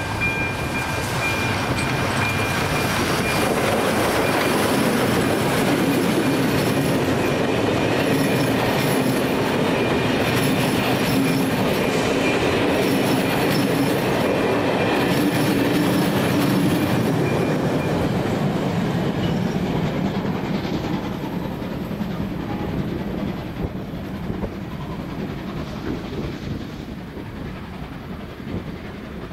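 A long, loud rumbling rush that builds over the first few seconds, holds steady, then fades away gradually over the last ten seconds. A held horn-like tone cuts off right at the start.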